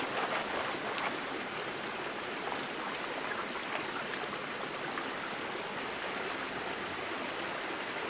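Swollen rainforest creek running: a steady rush of flowing water, with a few faint clicks in the first few seconds.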